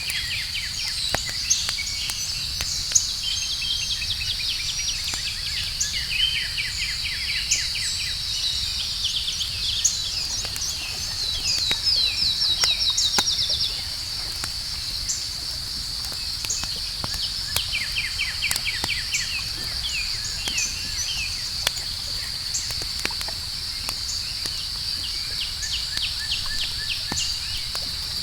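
Campfire crackling in scattered sharp pops over a steady high insect trill, with runs of rapid chirping; one louder run of chirps comes about twelve seconds in.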